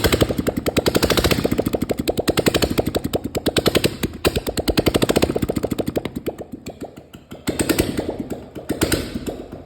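Royal Enfield Bullet's single-cylinder four-stroke engine running with a rapid, even exhaust beat. It is revved and eased off in swells, dropping back around six seconds in and blipped up twice near the end.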